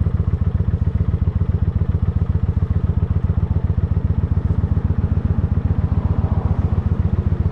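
Motorcycle engine idling steadily with an even, rapid pulse, warming up before a ride.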